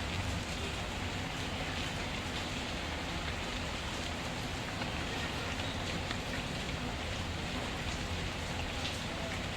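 Steady rain falling, with a few faint crackles from a wood fire scattered through it.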